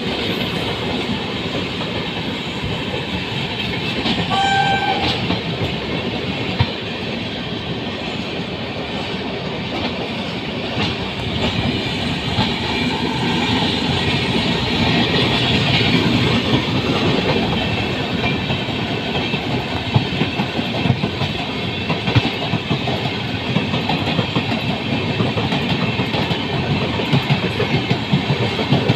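Indian Railways passenger train running on the track: a steady rumble and clatter of wheels over the rails. A short horn note sounds about four and a half seconds in.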